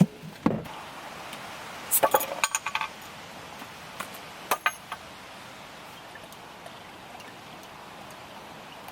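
Glass clinking: a quick run of clinks and taps about two seconds in, two more a couple of seconds later, then only a steady outdoor hiss.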